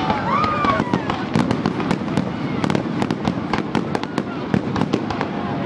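Fireworks grand finale: a dense barrage of aerial shells bursting, with many sharp bangs a second and no let-up.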